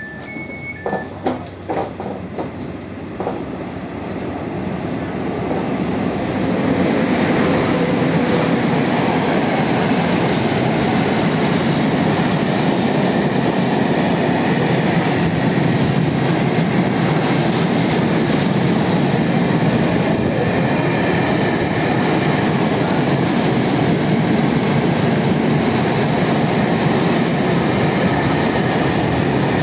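PKP Cargo ET22 electric freight locomotive running through, followed by a long string of open coal wagons rolling past close by. A few sharp wheel knocks come in the first seconds, then the noise builds to a steady, loud rumble and clatter of wagon wheels from about six seconds in.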